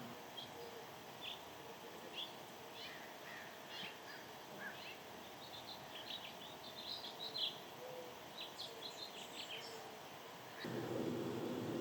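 Small birds chirping, many short high calls that come thicker after the middle. Near the end a low steady rumble comes in.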